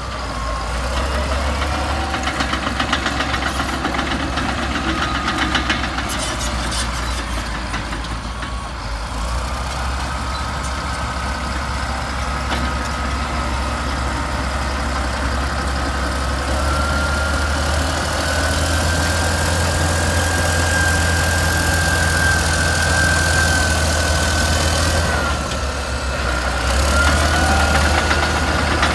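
Old Caterpillar D8 bulldozer working: its diesel engine runs with a steady deep rumble. A higher whine rises about halfway through and drops back a few seconds before the end, and a fast rattling clatter sounds in the first several seconds.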